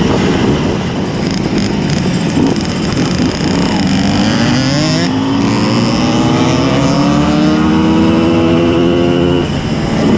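Simson S51 moped's tuned 90 cc reed-valve two-stroke engine under way, sounding rough at first, then revving steadily higher from about four seconds in, with a short dip in revs near the end.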